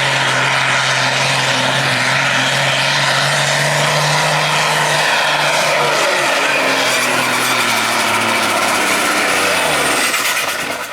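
Pulling vehicle's engine running hard at steady high revs while dragging a weight sled. From about six seconds in its pitch falls as the run ends, and a thin high whistle winds down near the end.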